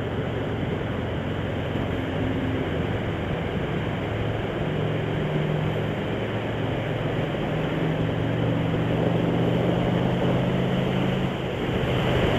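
Motorcycle engine running at riding speed under a steady rush of wind and road noise, its note shifting a little a few times.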